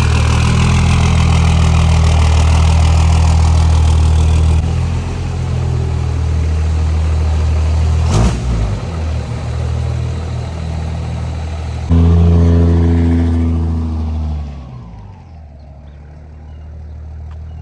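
Diesel pickup engine running loud and revving, in cut-together segments, with one sharp bang about eight seconds in. The sound fades out near the end.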